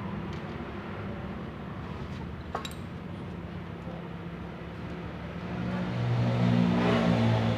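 A motor vehicle engine running with a steady low hum that grows louder about six seconds in.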